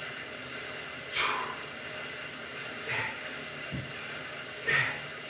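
A person exhaling hard in a steady rhythm, about one breath every 1.7 seconds, while working through weight reps on a stationary bike. Under the breaths runs a steady low hum.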